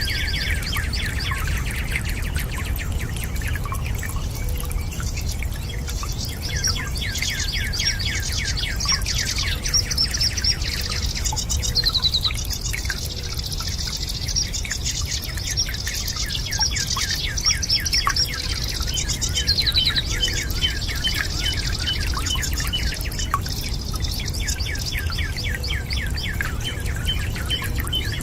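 Birds chirping and trilling in a dense, continuous chorus over a steady low rumble.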